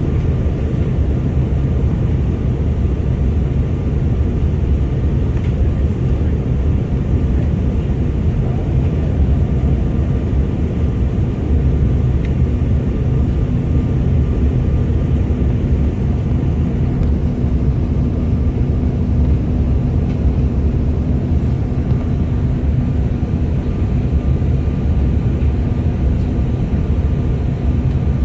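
Steady low roar of cabin noise inside a CRJ900 regional jet, from its rear-mounted turbofan engines and airflow. A faint steady hum joins it about halfway through.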